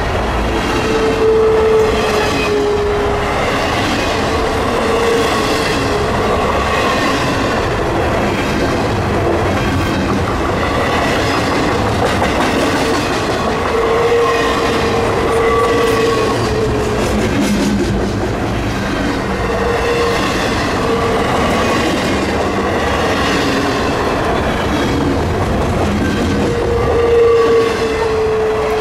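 Cars of a long CN freight train rolling past, wheels clattering over the rails with a steady rumble. A high wheel squeal swells and fades several times.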